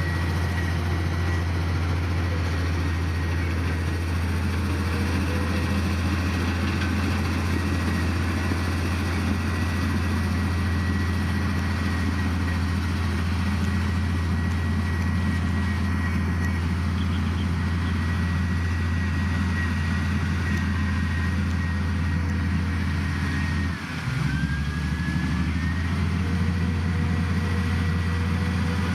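Heavy diesel engine of an earthmoving machine running steadily, a low drone with a thin high whine above it. About three quarters of the way through it dips for a moment, then picks up again.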